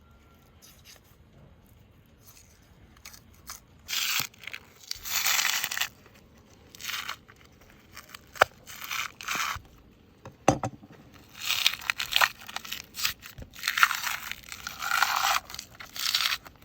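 Knife cutting and scraping sinew off raw beef ribs in short, irregular strokes, with a couple of sharp clicks along the way.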